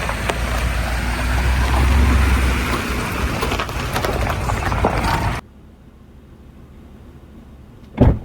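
Pickup truck carrying a truck camper driving past, a steady rush of tyre and road noise with a low engine rumble that swells as it comes closest. The noise cuts off abruptly about five seconds in to a quiet hum, and a sharp knock comes near the end.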